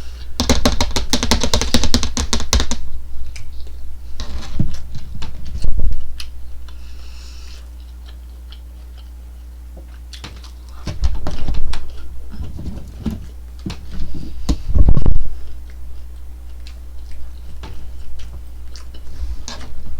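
Close-up eating sounds: chewing tough McDonald's chicken nuggets, with crinkly crackling and clicks. A dense burst of crackling comes at the start, then a quieter stretch, then a few louder knocks later. A steady low hum runs underneath.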